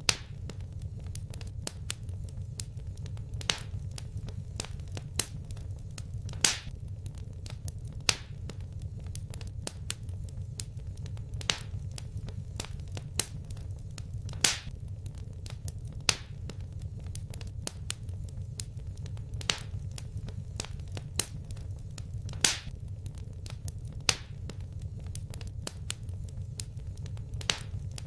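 Wood fire burning in a fireplace: a steady low rumble of the flames, with sharp crackling pops about every second and a half and fainter small crackles between them.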